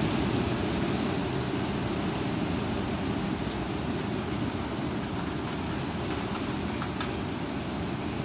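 Strong wind blowing steadily, buffeting the microphone with a deep rumble.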